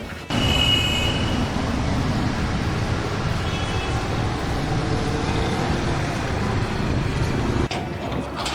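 Steady motor-vehicle noise, a low rumble that starts abruptly just after the opening and changes abruptly about a second before the end.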